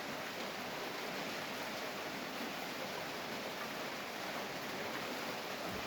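Steady background hiss, even and unchanging, with no distinct tool clicks standing out.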